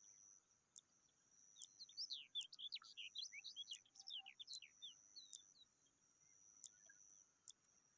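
Bird twittering: a quick run of short, sliding high chirps for about four seconds in the middle, over a steady high hiss with a few faint ticks.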